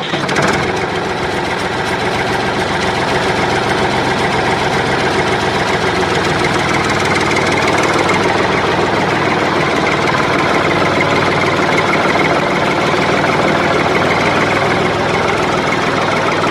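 Small electric motor of a homemade toy tractor running steadily, a dense buzzing rattle with no change in speed.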